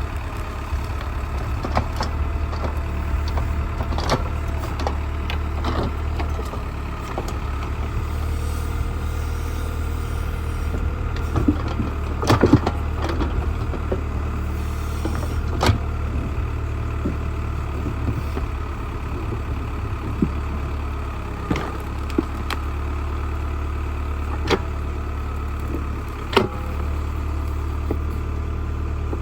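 Old tractor backhoe's engine running steadily at low revs, with scattered short sharp knocks, the loudest a pair about twelve seconds in.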